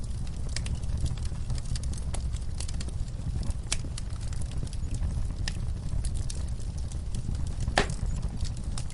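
Wood fire crackling in a fireplace: a steady low rumble of burning with scattered sharp pops and crackles, one louder pop near the end.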